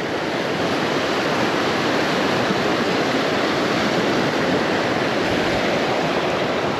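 Steady rushing of a small river's current.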